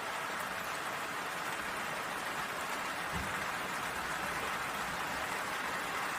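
A steady, even hiss like falling rain, with a faint low thump about three seconds in.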